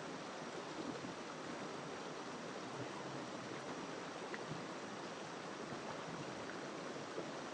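Jungle river flowing over rocks: a steady rushing of water.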